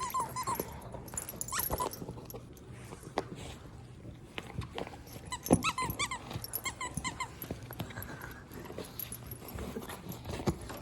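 Yellow Labrador chewing and tearing at a thick canvas plush dog toy, with knocks and runs of short high squeaks, several a second, most clearly about halfway through.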